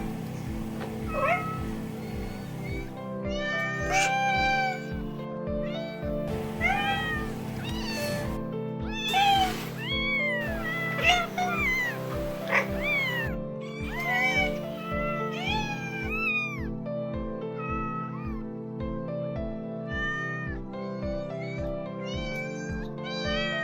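A series of cats meowing, one call after another, each rising and then falling in pitch, over background music with a steady beat.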